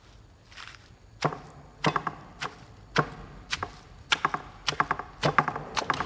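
Knife chopping on a wooden cutting board: sharp, irregular knocks starting about a second in, some in quick runs of two or three.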